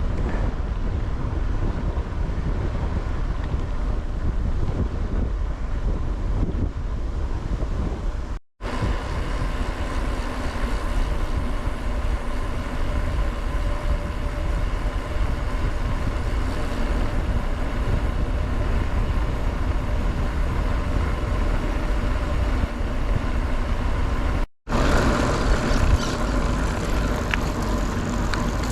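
Strong wind buffeting the camera microphone while mountain biking, a constant low rumble, with two brief dropouts in the audio.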